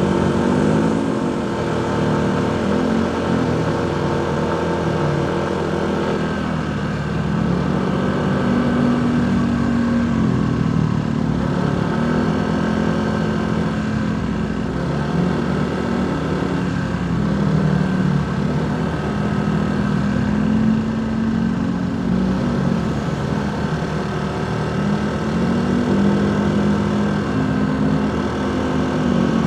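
Motorcycle engine running under way, its pitch rising and falling again and again as the rider accelerates and eases off. A separate steady hum drops away about six seconds in.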